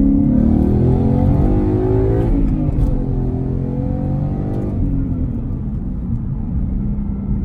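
Ford Mustang GT's 5.0 V8 engine and exhaust under acceleration, the engine note rising for about two seconds, then falling as the car eases off, and settling to a steady drone.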